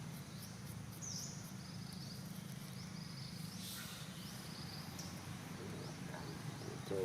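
Outdoor ambience: a steady low hum under short, high chirps that dip and rise, repeating about once a second.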